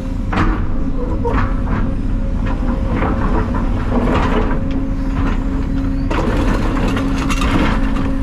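Heavy diesel excavator running with a steady hydraulic whine, broken by repeated clanks and knocks of metal and debris.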